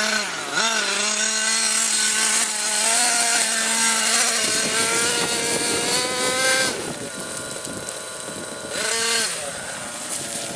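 Radio-controlled car's electric motor whining as it is driven, the pitch rising and falling with the throttle and held steady for a few seconds. It drops off about seven seconds in to a rougher, noisier stretch, then revs up briefly again near the end.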